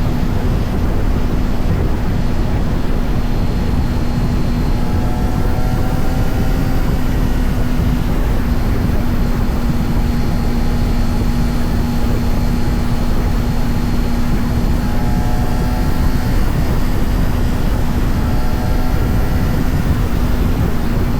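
Honda CBR600RR's inline-four engine running at a steady cruising speed, its pitch holding level, under heavy wind noise on the microphone.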